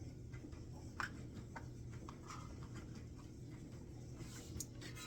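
A few light, scattered taps and clicks of food and utensils being handled during kitchen prep, over a steady low hum.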